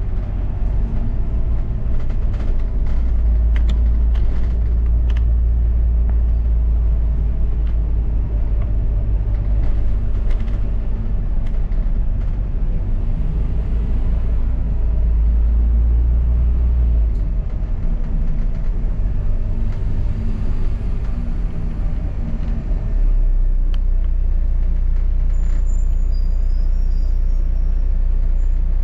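Double-decker bus driving, heard from on board: steady engine and road rumble, with the engine note shifting a couple of times and scattered light rattles.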